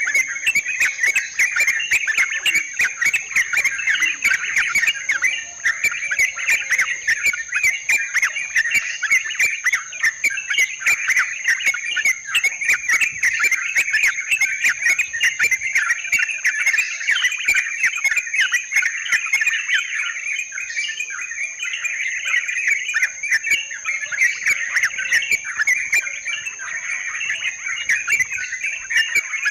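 Trucukan (yellow-vented bulbul) calling in a dense, continuous chattering song over a steady high-pitched whine.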